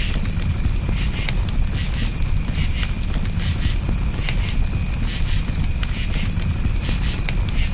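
Campfire crackling with scattered sharp pops over a low steady rumble, with crickets chirping in repeated pulses.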